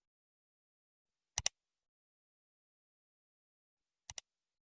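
Dead silence broken twice by a short double click, two sharp ticks in quick succession, the second pair quieter and about three seconds after the first.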